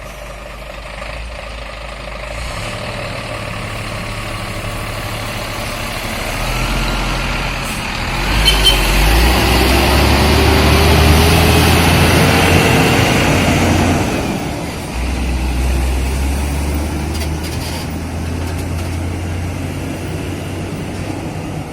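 Heavy truck's diesel engine running. It grows louder from about a quarter of the way in, with the engine pitch gliding, and peaks around the middle. It drops back to a steady low rumble about two thirds of the way through.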